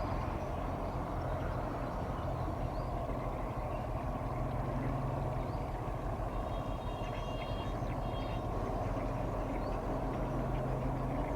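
Steady low engine drone of a container ship moving along the river, with small birds chirping throughout and a short buzzy animal call about seven seconds in.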